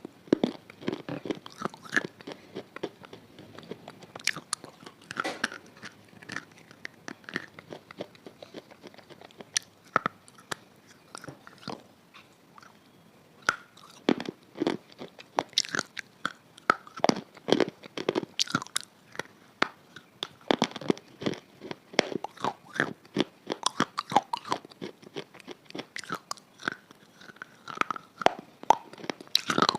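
Crunchy food being bitten and chewed: rapid runs of sharp crunches, pausing briefly about twelve seconds in.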